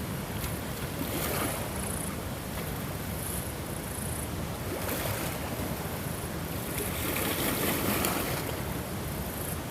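Ocean waves washing in, a steady rush of surf that swells several times, most strongly near the end.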